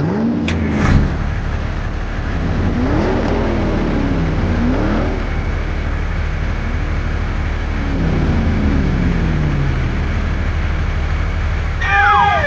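Vehicle engine running over a steady low rumble, its pitch revving up and down several times, with a sharp knock about half a second in.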